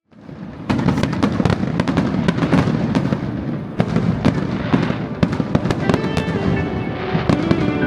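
Fireworks popping and crackling in quick, irregular succession, fading in at the start. Music with sustained notes comes in underneath about six seconds in.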